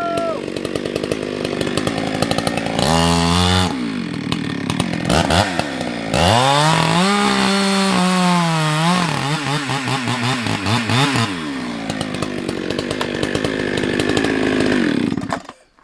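Husqvarna 365 two-stroke chainsaw cutting through a log, its engine speed sagging and climbing again as the chain is loaded. The engine stops abruptly near the end.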